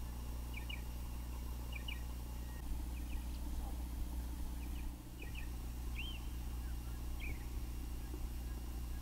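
Wild birds chirping in short, mostly doubled notes every second or so, with one longer rising-and-falling call about six seconds in, over a steady low hum.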